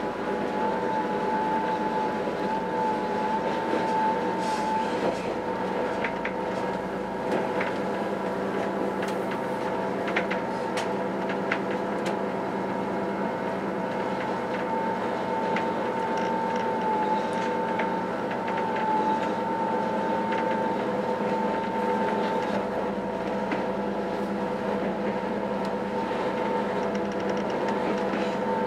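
SNCF B 81500 (AGC) bimode railcar under way, heard from on board: a steady running hum with a wavering whine that comes and goes, and scattered clicks and knocks from the track.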